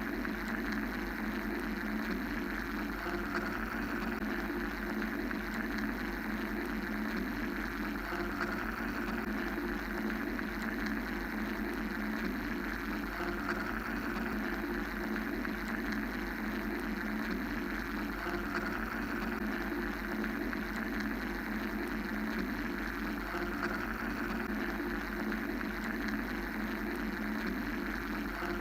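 Steady mechanical white noise for sleep: an even, droning hum and hiss with no breaks. The upper hiss swells and fades gently every few seconds.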